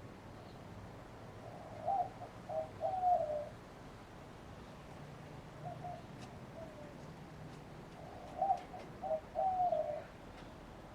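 A dove cooing: two loud phrases of several coos about six seconds apart, with a softer phrase between them, over a faint steady low hum.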